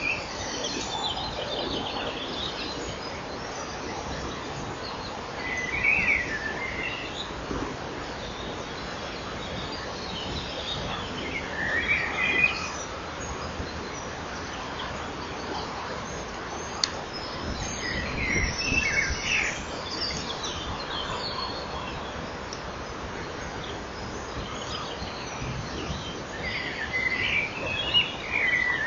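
Steady hiss from a microphone in a kingfisher nest chamber, with short bursts of high bird chirps about five times, several seconds apart.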